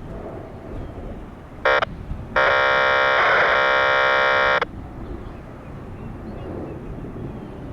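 A loud buzzing tone, a short blip and then a steady buzz about two seconds long that starts and stops abruptly, over wind noise.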